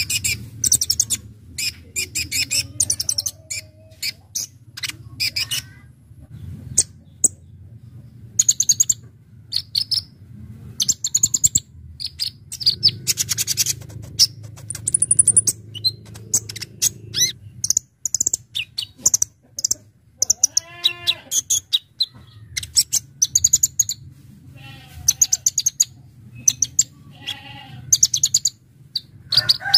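Kolibri ninja (konin) sunbird singing: rapid phrases of sharp, high chattering notes repeated one after another, with a steady low hum underneath.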